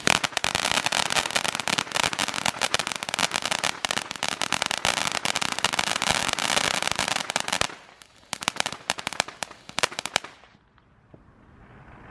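A firework crackling: a dense, rapid run of small pops for about eight seconds, then thinning to scattered crackles and stopping about ten seconds in.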